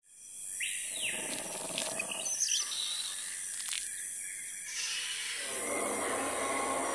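Bird-like calls and a chirp over a steady noisy background.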